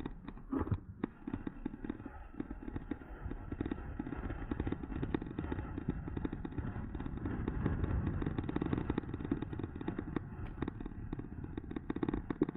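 Riding noise from an e-bike heard through a camera mounted on the bike: a steady rumble of wind and tyres with many small rattling clicks throughout.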